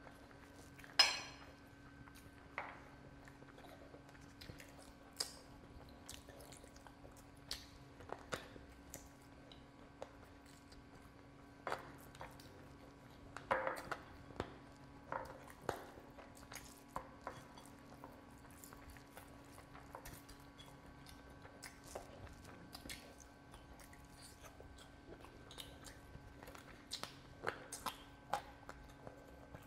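Close-miked eating by hand: wet chewing and lip smacks, with scattered soft clicks and squishes as curry and rice are mixed and picked up with the fingers. The sharpest smack comes about a second in, and another small cluster comes about halfway through.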